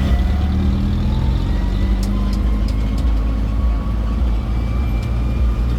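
Engine of a wheeled road tour train running steadily under way, a low rumble with a thin whine slowly rising in pitch. A few light clicks or rattles come about two to three seconds in.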